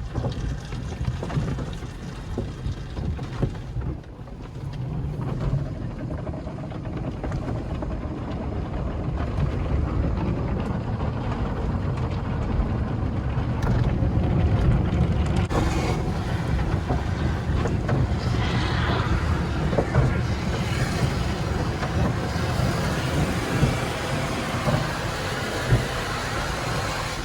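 Car wash at work on a car: steady water spray and machinery noise with a low rumble, getting louder a few seconds in.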